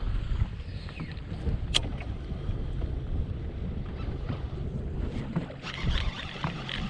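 Wind rumbling on the microphone over water lapping against a kayak, with one sharp click about two seconds in.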